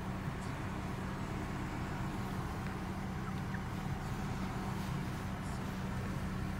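Car engine running at idle, a steady low hum heard from inside the cabin.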